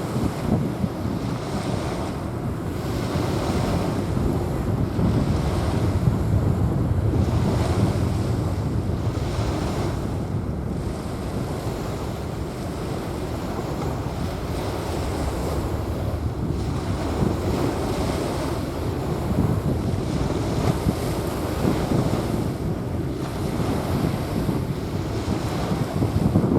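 Small waves washing onto a sandy beach, with wind rumbling on the microphone. The surf swells louder and eases several times.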